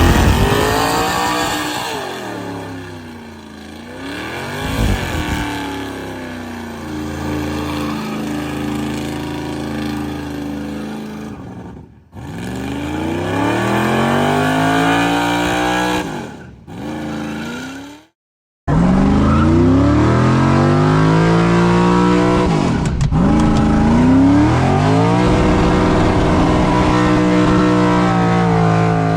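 A burnout truck's engine revving hard, its pitch climbing and falling again and again, with tire squeal from the spinning rear tires. The sound is broken by a few abrupt cuts, one a brief silence about two-thirds of the way through.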